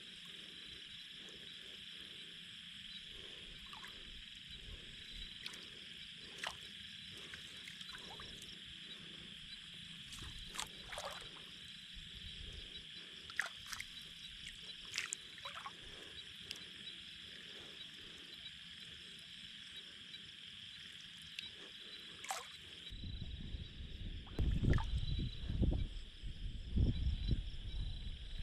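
Steady high-pitched outdoor chorus with scattered sharp ticks; from a little past two-thirds of the way in, low rustling and thumps are added.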